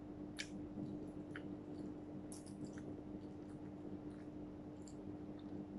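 A person chewing food, with faint wet mouth clicks and smacks scattered through, over a steady low hum.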